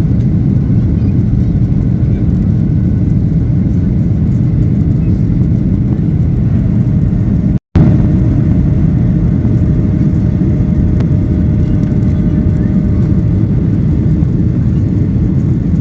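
Steady, loud jet engine and airflow noise inside the cabin of a Boeing 737-800. The sound cuts out for a split second about halfway through, then carries on unchanged.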